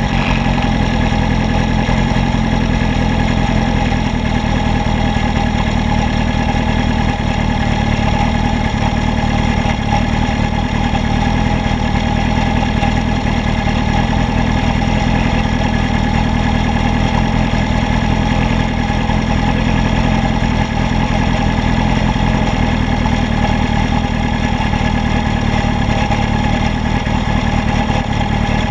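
Honda CB750 chopper's air-cooled four-cylinder engine idling steadily while the bike stands still.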